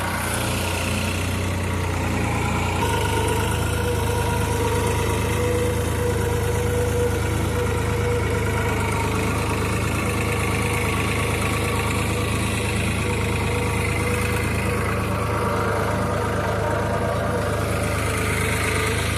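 New Holland 3600-2 tractor's three-cylinder diesel engine running steadily under load while pulling a reversible plough through the soil, holding its RPM without dropping.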